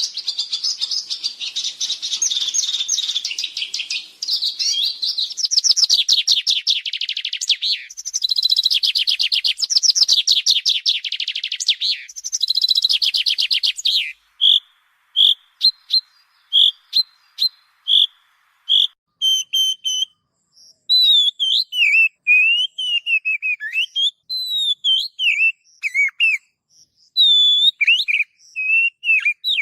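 Songbirds singing, a masteran mix of several species' songs: rapid, dense trilling for about the first half, then a run of separate short chirps about twice a second, then varied sliding whistled phrases from about two-thirds of the way in.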